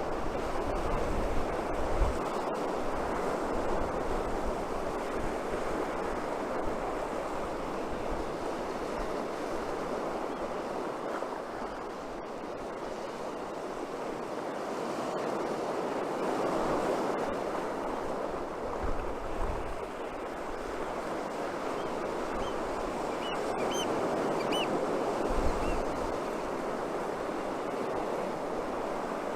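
Atlantic surf breaking and washing up a beach, swelling and easing every few seconds. Strong wind gusts buffet the microphone, with low rumbles about 2 s in and again near 19 and 25 s.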